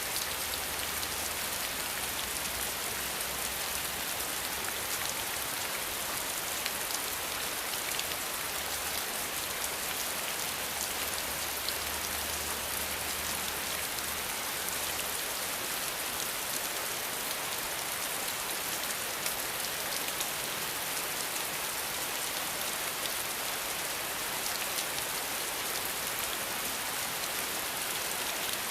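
Steady rain falling: an even hiss, with scattered sharp ticks of single drops striking a surface.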